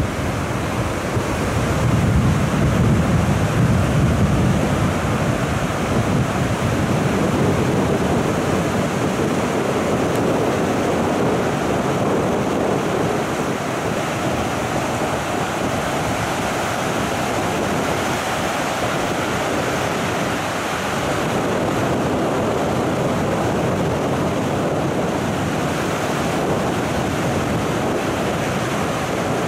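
Rough surf breaking continuously on a beach in a strong wind, with wind buffeting the microphone; a heavier low rumble of surf comes a couple of seconds in.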